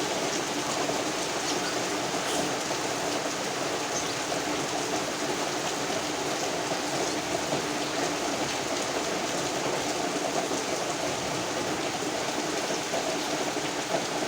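Rain falling with wind, a steady rushing noise that keeps an even level.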